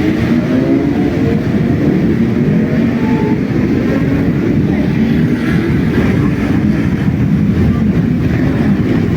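Several motorcycle engines running together, their pitch rising and falling as throttles open and close, densest in the first couple of seconds.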